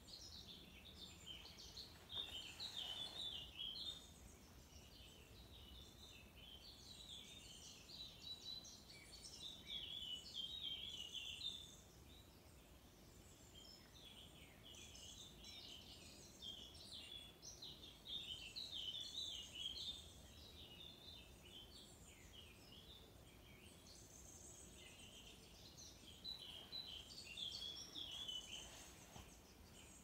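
Faint birdsong: small songbirds singing quick, high chirping phrases a few seconds long, with quieter gaps between, over faint outdoor background hum.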